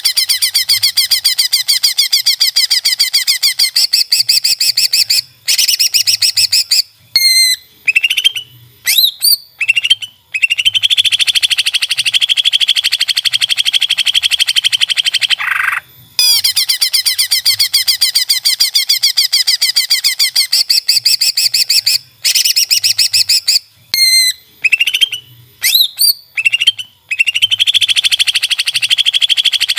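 Cucak ijo (green leafbird) song: long, fast, buzzing trills, broken by a few seconds of separate sweeping whistled notes. The same sequence repeats about every 16 seconds.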